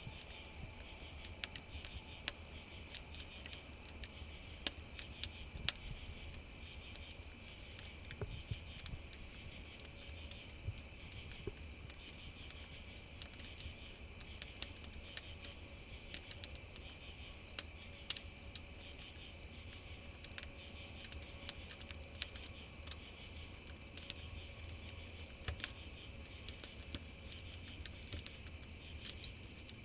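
A chorus of crickets chirring steadily and high-pitched, with a wood campfire crackling and popping irregularly over it.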